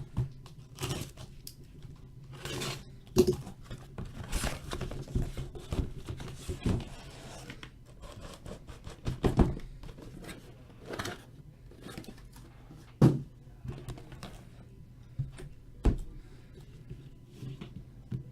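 A sealed trading-card case and its boxes being opened by hand: irregular slitting, scraping and tearing of tape and wrapping, with several sharp knocks as the boxes are handled.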